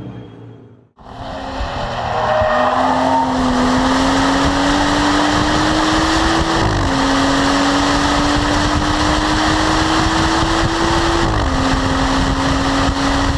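BMW M235i Racing's turbocharged straight-six with a racing exhaust, pulling hard under acceleration. It starts after a brief silence, the engine note rises slowly through each gear and drops sharply at two upshifts, about halfway through and again near the end, then holds steady.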